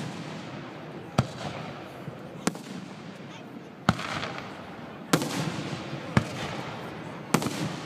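Aerial fireworks exploding: about six sharp bangs, roughly one a second, with crackling in between.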